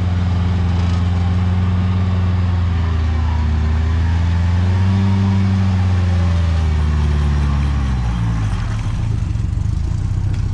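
Off-road 4x4's engine revving, its pitch held high with small wavers for about eight seconds, then falling back toward idle near the end.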